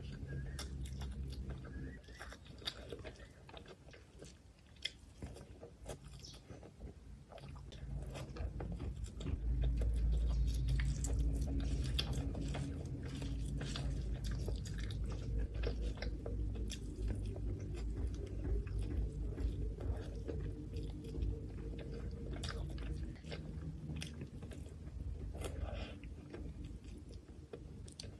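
Close-up chewing and mouth sounds of someone eating mutton liver curry and biryani rice, with many small wet clicks throughout and a louder low chewing rumble from about a third of the way in.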